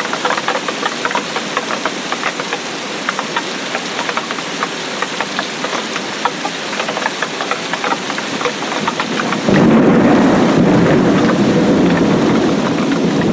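Steady rain with many drops striking close by. About nine and a half seconds in, a loud low rumble of thunder breaks in and slowly fades.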